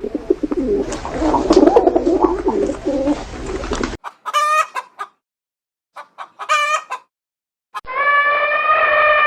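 Birds calling in edited segments. First comes a flock's dense, overlapping clucking and chatter for about four seconds, which stops abruptly. Then there are two short wavering calls, and near the end a long, loud held call begins.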